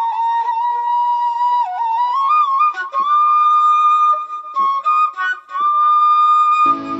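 Background music: a solo flute playing a slow melody of long held notes with small ornaments and slides between them. A short noisy swell with lower tones comes in near the end.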